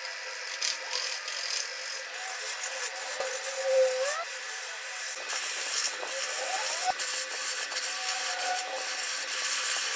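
A tool cutting into wood: a continuous scraping, shaving hiss with short squeaky whines rising and falling in pitch.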